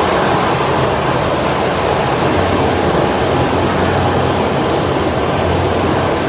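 Steady running noise inside a Tokyo Metro 9000 series car travelling at speed: the rumble of wheels on rail and running gear, with a low hum underneath.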